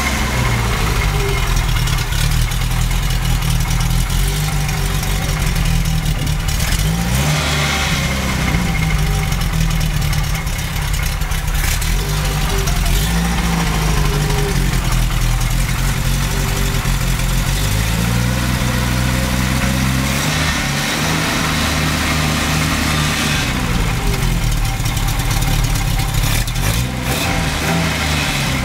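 Renault Dauphine's rear-mounted four-cylinder engine running after a start, idling and revved up and down several times. A few short knocks are heard along the way.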